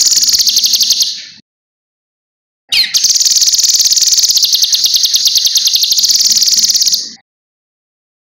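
Cucak kinoi singing a loud, high, rapid trill in two phrases. The first phrase ends about a second and a half in. The second starts with a quick falling note a little after two and a half seconds and runs about four and a half seconds.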